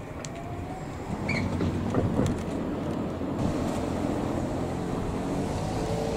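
Electric multiple-unit train rolling slowly along the track: a steady motor and running hum that swells about a second in, with a few wheel clicks and a brief squeak from the wheels on the rails.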